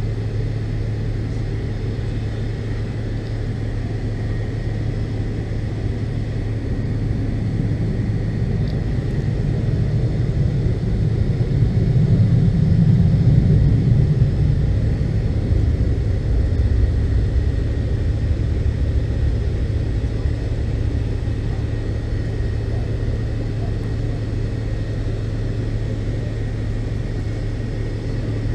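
Steady low drone inside the cabin of a McDonnell Douglas MD-82 airliner, with a thin steady whine over it. It swells for a few seconds about halfway through, then settles back.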